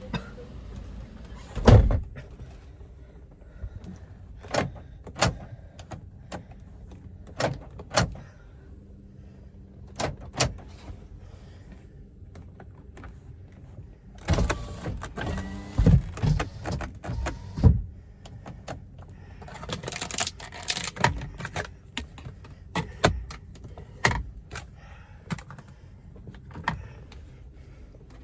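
A car's doors and interior fittings being handled: a string of separate clicks and knocks, with a heavier run of thumps about halfway through and a brief whirring stretch a few seconds later.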